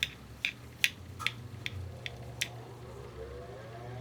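Light, sharp clicks, about one every half second, as a carburetor mixture screw is backed out with a screwdriver, over a steady low hum; near the end a faint whine starts and rises in pitch.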